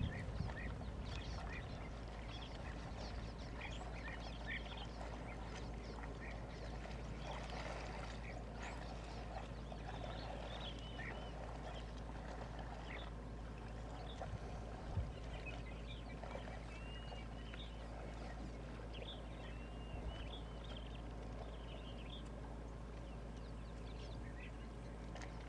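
Wild birds giving scattered short chirps and calls over a steady low rumble.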